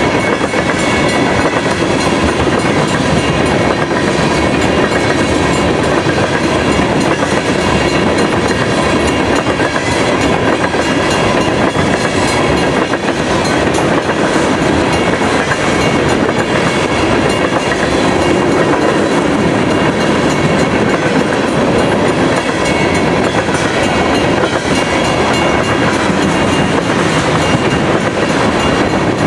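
Canadian Pacific freight train of tank cars rolling steadily through a road crossing: a loud, unbroken rumble of wheels on the rails with a continuous clickety-clack.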